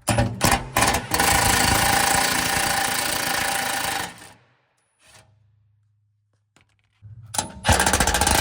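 Impact wrench hammering 12mm bolts loose on an under-engine cover: a few short trigger bursts, one steady rattling run of about three seconds, then a pause, and it starts up again near the end for the second bolt.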